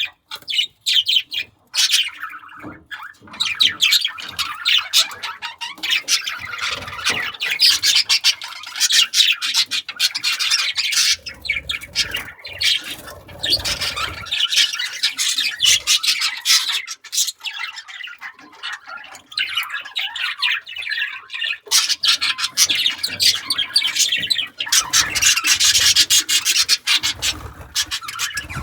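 Budgerigars chattering and squawking: rapid, high-pitched warbling notes, thinning out briefly a little past the middle.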